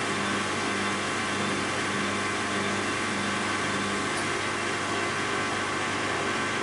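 Bosch WAB28220 front-loading washing machine running with a steady mechanical drone and motor hum; a low hum comes and goes a few times.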